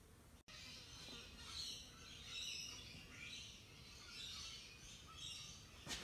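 Faint birds chirping irregularly in the background. The sound drops out for an instant about half a second in, and there is a sharp click near the end.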